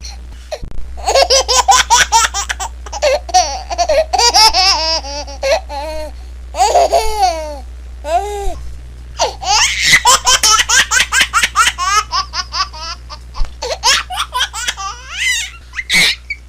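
A baby laughing in repeated fits of rapid, high-pitched giggles, with short pauses between fits.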